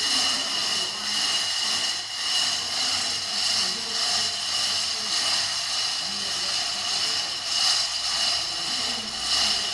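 A steady hissing rush with a constant high whine running through it, like a large engine or vehicle running, with faint voices beneath.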